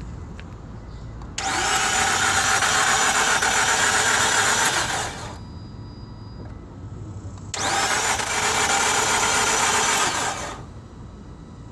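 Two start attempts on a 2007 Nissan Altima, each a steady mechanical whir of about three to four seconds that stops without the engine firing. This is a no-start after the engine overheated, and the engine later proved damaged badly enough to need replacing.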